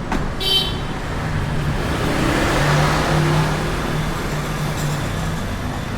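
A motor vehicle passing close by on the street, its engine and tyre noise swelling through the middle and fading away. A brief high squeak comes about half a second in.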